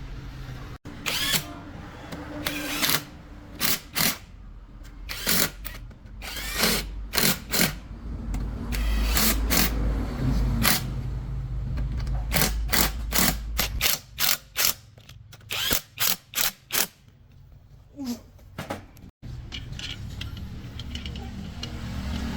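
Workshop tool noise from work on a truck gearbox: many short, sharp bursts and clatters, some in quick runs of about two a second, over a low steady hum.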